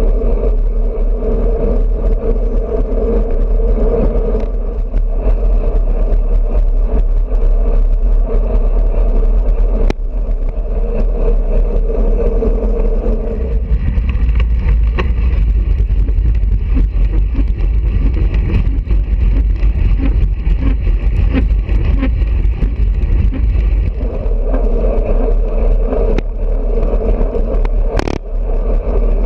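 Wind rushing over a bicycle-mounted GoPro microphone while riding at speed, with a steady mid-pitched hum that fades out partway through and comes back near the end. A sharp click near the end.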